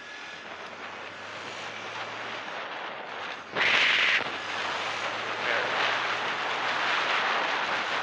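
Honda CB150R motorcycle engine running steadily under a broad rush of wind and road noise that gradually builds, with a louder surge of rush about halfway through.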